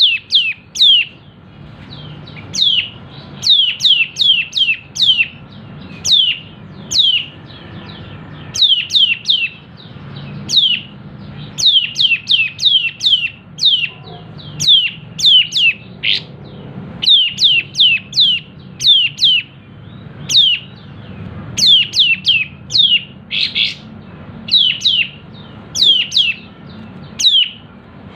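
Kapas tembak bulbul calling: sharp, quick downward-sweeping 'pik' notes fired in rapid clusters of two to five, again and again, the chattering 'ngepik nembak' call.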